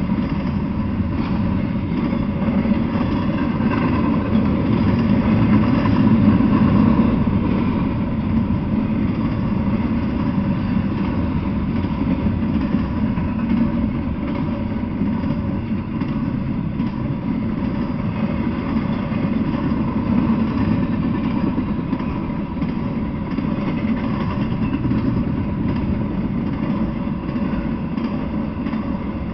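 Intermodal freight train's cars rolling past, wheels on rail making a steady, continuous rumble that swells slightly about six seconds in.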